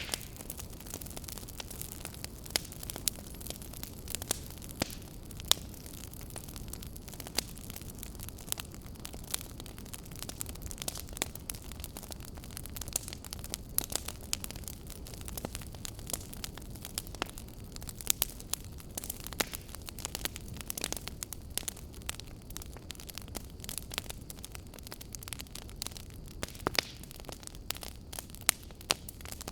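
Fire crackling: a steady low rumble and hiss with frequent sharp, irregular pops and crackles.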